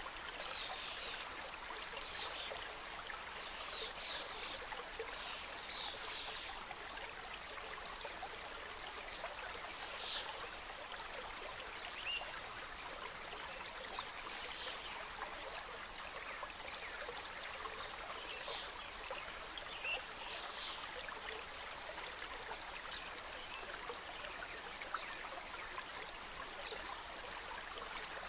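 Mountain stream cascading over rocks: a steady rush of water with small splashes and gurgles scattered through it.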